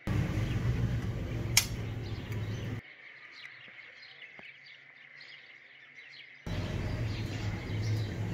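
Small birds chirping repeatedly in the background. A louder steady low noise covers them for the first three seconds and comes back about six and a half seconds in, with one sharp click about one and a half seconds in.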